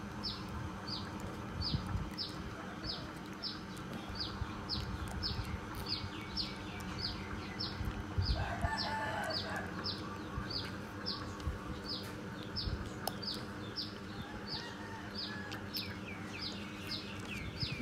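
A small bird chirping steadily, a short high falling note repeated about twice a second.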